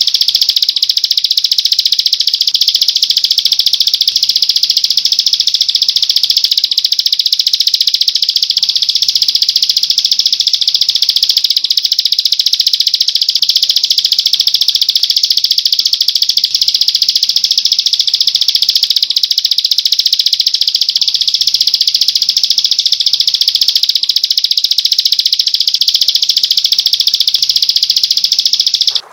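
A songbird's high-pitched, rapid trilling chatter, dense and unbroken with no pauses.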